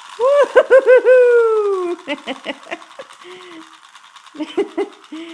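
A toddler's voice hooting like an owl: a few quick rising-and-falling hoots and then one long falling call, followed by softer short babbling sounds.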